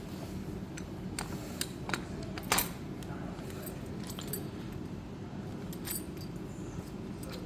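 Metal clicks and clinks of a Hiplock DX1000 D-lock being clamped shut, with keys rattling: several sharp clicks in the first three seconds, the loudest about two and a half seconds in, and one more about six seconds in.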